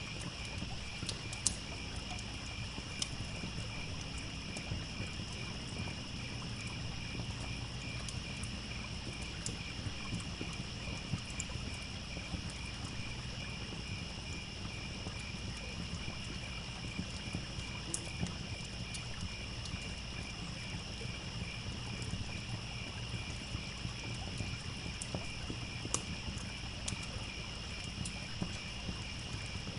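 A layered evening nature ambience: crickets chirping steadily and rhythmically, with a campfire crackling and giving an occasional sharp pop. A stream trickles underneath as a low rushing wash.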